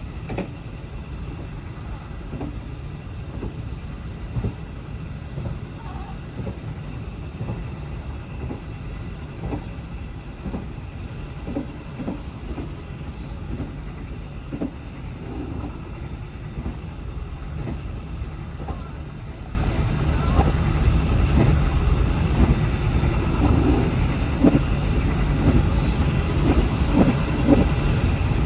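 A moving train runs with a steady low rumble and scattered irregular clicks of wheels over the track. About two-thirds of the way through, the sound jumps abruptly to a louder, fuller train recording.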